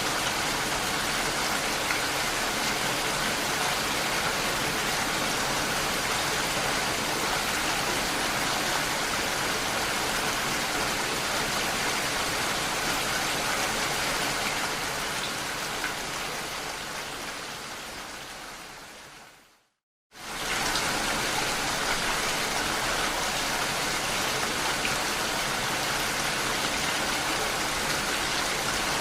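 Steady rain falling on window glass. The rain fades out gradually over several seconds, cuts to a brief silence about twenty seconds in, then comes straight back at full level.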